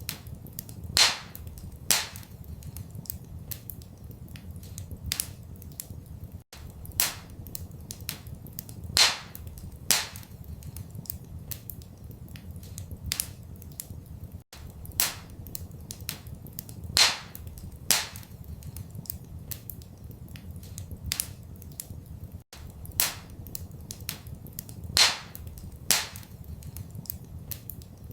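Wood fire in a fireplace crackling, with sharp pops and a few louder snaps over a steady low rumble. The same pattern of pops repeats every eight seconds, as a looped recording.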